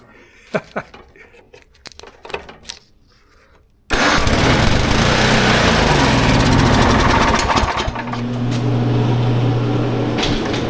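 Snow blower's small gasoline engine catching about four seconds in after a pull start, running loud and fast at once. Near eight seconds it settles into a steadier, slightly quieter drone. Faint handling clicks come before it.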